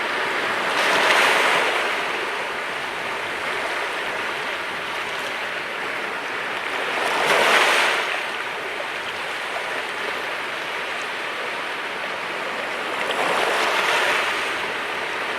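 Sea waves breaking, three surges of surf about six seconds apart over a steady wash of water.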